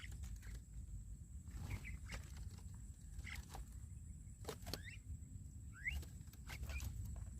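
Birds calling in short, scattered chirps and whistles, a few of them rising in pitch, over a steady low rumble.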